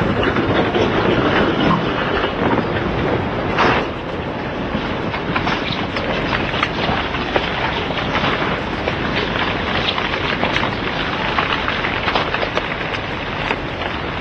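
Landslide carrying a hillside forest downslope: a continuous heavy rumble of moving earth and debris, with many sharp cracks and snaps from breaking trees.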